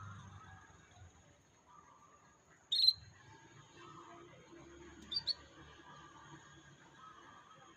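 Canary chirping: one sharp, loud call about three seconds in and a quick double call around five seconds, over faint continuous warbling.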